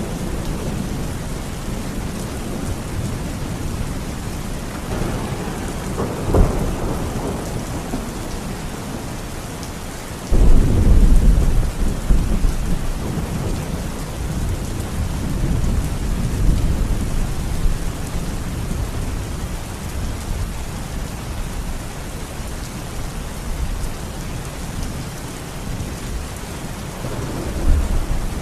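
Steady rain in a thunderstorm. Thunder sounds through it: a sharp crack about six seconds in, a loud low rolling rumble that starts suddenly about ten seconds in and dies away over several seconds, and another rumble building near the end.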